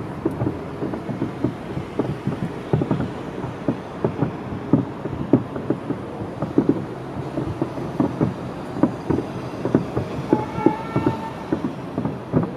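Aerial firework shells bursting in a rapid, irregular barrage, several booms a second overlapping one another.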